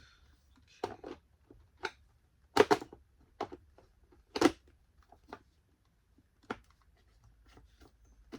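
Hard plastic knocks and clicks as a Dirt Devil stick vacuum's dirt cup is worked back into its housing after not seating fully: about seven separate knocks spread out, the loudest pair a little before the middle.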